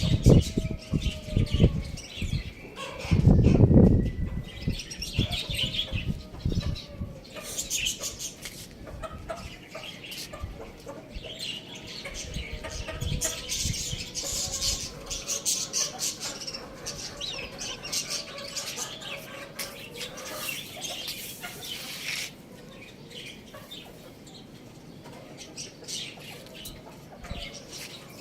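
Domestic birds flapping their wings in loud bursts during the first several seconds, then busy high-pitched chirping with low clucking calls, which thins out near the end.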